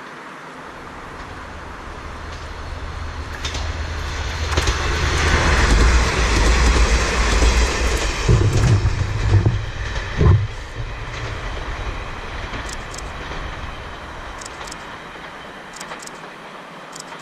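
A Kanto Railway diesel railcar passing on the track. Its engine rumble and wheel noise build up, are loudest in the middle with a sharp knock about ten seconds in, and then fade away.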